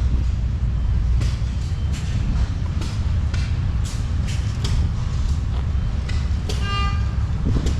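Old engines running steadily with a low rumble, with irregular sharp clicks and pops on top, and a short whistle about seven seconds in.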